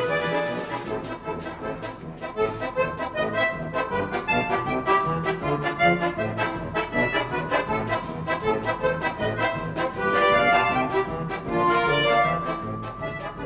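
Accordion orchestra playing a fast, lively passage of many short, detached notes over a steady bass, growing quieter near the end.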